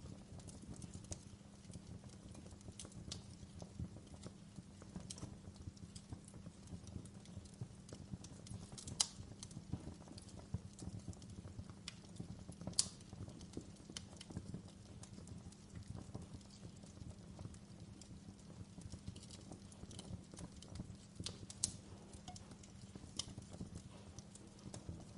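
Wood fire burning in a fireplace: a steady low rush of flames with irregular sharp crackles and pops, the loudest pops about nine and thirteen seconds in.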